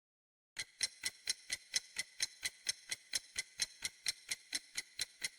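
Clock-style ticking sound effect, a quick even run of sharp ticks at about four to five a second, starting about half a second in: a quiz countdown timer.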